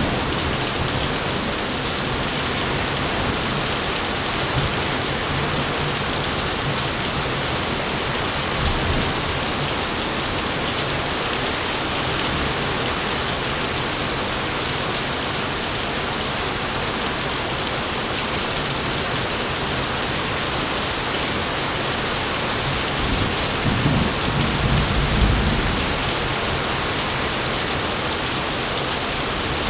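Steady heavy rain with a low rumble of thunder swelling about three quarters of the way through.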